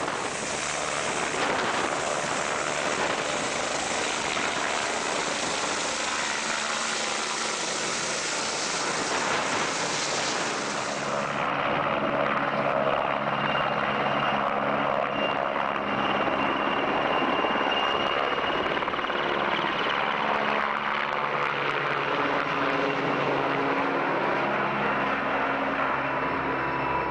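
Helicopter in flight: steady rotor and turbine noise. The high hiss falls away suddenly about eleven seconds in, leaving a lower, duller sound.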